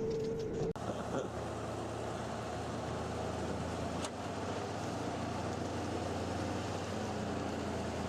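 Heavy forestry machine's diesel engine running steadily with a low hum. A higher steady whine stops abruptly under a second in.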